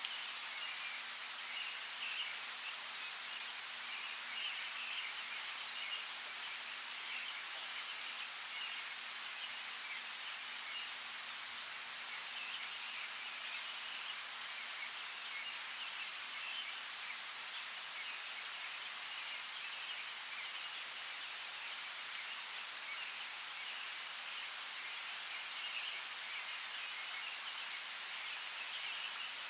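Steady rain falling, with a few sharper raindrop hits, about 2 and 16 seconds in, and small birds chirping faintly throughout.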